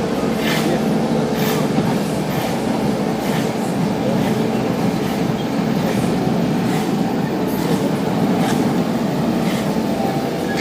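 Steady vehicle rumble, with a short click about once a second.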